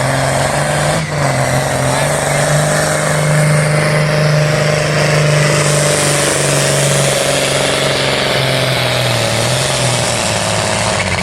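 John Deere pulling tractor's engine running flat out under load during a full pass down the pull track, a loud, steady, sustained engine note with a brief dip about a second in.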